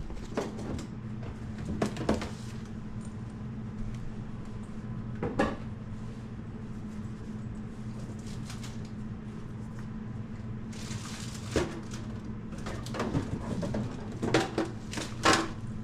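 Items being handled and set into a plastic storage bin: scattered knocks, clunks and rustles, heaviest near the end, over a steady low hum.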